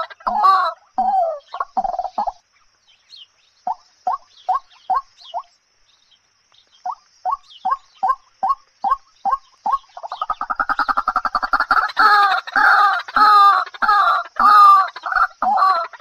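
A bird calling in runs of short, clucking notes, about three a second, with two brief pauses; from about ten seconds in the calls run together faster and louder.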